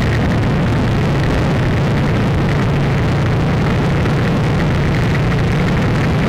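A steady, loud rumble with a hiss over it, unchanging throughout, like a running vehicle or engine.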